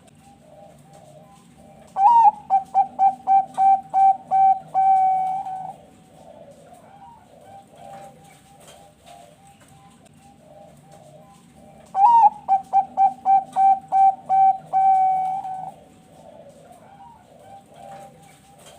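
Zebra dove (Bangkok perkutut) singing: two song phrases about ten seconds apart, each a rising opening note, a quick run of short coos and a longer held final coo. Fainter cooing goes on between them.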